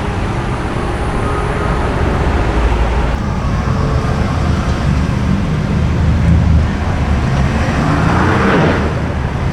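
Street traffic: car engines running and rumbling past, with one engine note falling in pitch near the end as a vehicle goes by.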